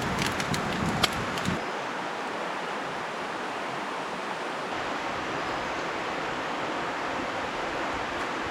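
Steady rushing water, an even hiss, with a few clicks and knocks in the first second and a half.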